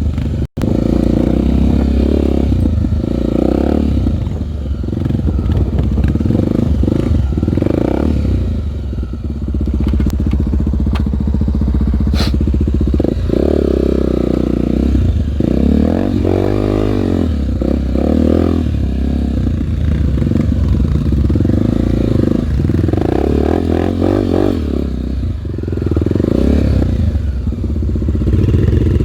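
Single-cylinder four-stroke Honda trail motorcycle engine running hard, its pitch rising and falling with the throttle. There is a brief gap in the sound about half a second in.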